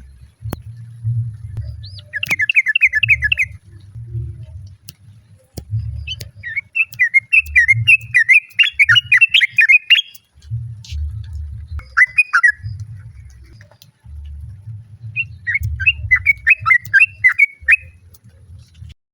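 Yellow-vented bulbul (trucukan) calling: quick bubbly runs of chattering notes in four bursts, the longest a few seconds long in the middle, with a low rumble underneath.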